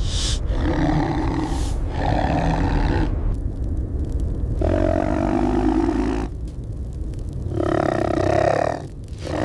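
A tiger roaring and growling in a series of about four drawn-out calls, each roughly a second long, over a steady low rumble.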